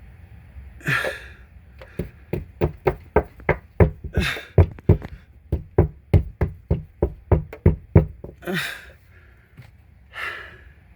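Rapid, even knocking on a hard surface, about four knocks a second for some six seconds. It is set among a few short breathy noises.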